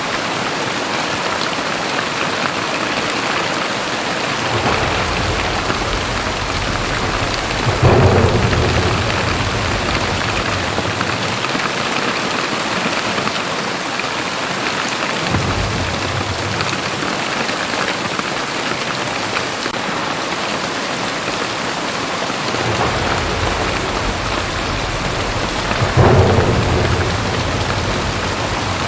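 Very heavy rain pouring steadily, with thunder rumbling low several times. Two louder, sudden claps come about eight seconds in and near the end.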